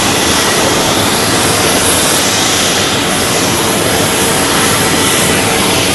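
A jet airliner's engines running loud and steady as the aircraft moves along the runway, a dense roar with a faint steady tone in it.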